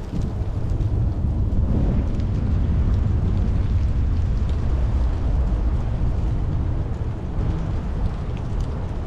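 Rain falling steadily over a deep, continuous low rumble that swells about a second in and eases a little near the end, with faint scattered drop ticks on top.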